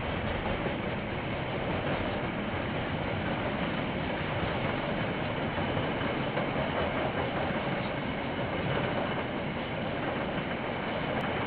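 A KiwiRail train rolling past, a steady rumble of wheels on the rails, heard through a security camera's microphone.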